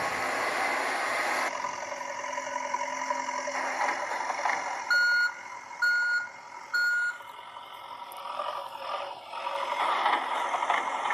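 A reversing beeper sounds three short beeps, about a second apart, over a steady vehicle whir.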